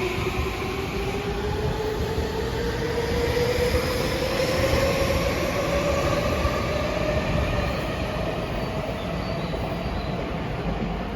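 Tokyu 2020 series electric train accelerating: the inverter-driven traction motors give a whine that climbs steadily in pitch for about seven seconds, then fades, over the steady rumble of the running train. This is the motor hum that has earned the series the nickname "microwave".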